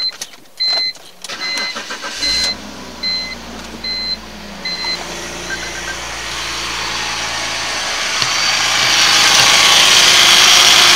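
BMW E46 engine cranked and started about two seconds in, then idling steadily. A rapid, evenly spaced warning chime beeps over the start and fades out about halfway through, and a hiss grows louder toward the end.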